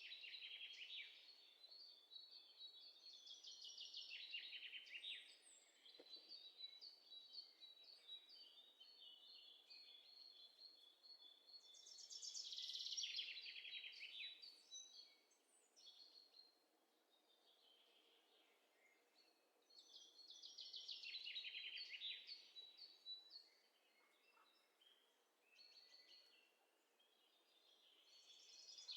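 Faint birdsong: a songbird repeats a high, rapid trilled phrase that falls in pitch, once every several seconds, over a soft background hiss.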